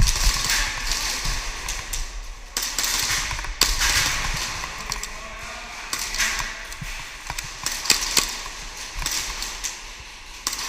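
Airsoft pistols firing: scattered sharp pops at irregular intervals over a rustling hiss.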